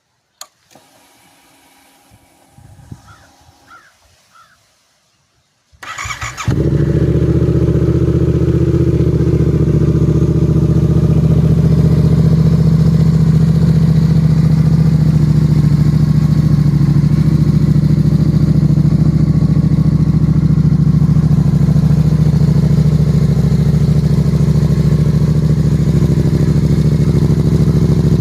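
Yamaha R7 motorcycle cold start: a click and a faint hum, then the starter cranks briefly about six seconds in and the engine catches. It settles into a loud, steady idle.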